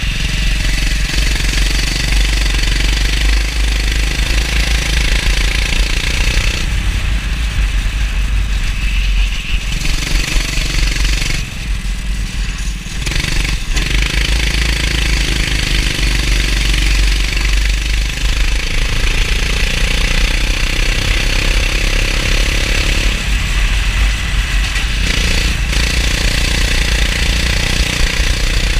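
Kart engine running hard, its pitch rising and falling as the kart accelerates and slows, with a brief drop a little before halfway, as when the driver lifts off the throttle. A steady hiss runs underneath.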